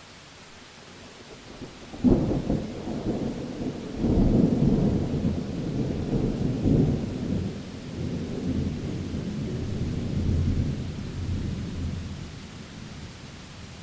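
A thunderclap over steady rain hiss: a sudden crack about two seconds in, a second heavier peal about two seconds later, then a long rolling rumble that fades out near the end.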